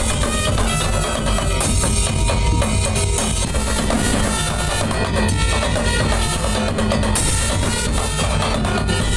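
Madurese daul ensemble playing: heavy, driving drums with sustained melody lines over them.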